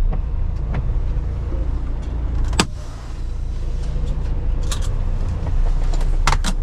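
Semi truck's diesel engine and road rumble heard from inside the cab while driving, a steady low drone. A few sharp clicks and knocks cut through it, the loudest about two and a half seconds in.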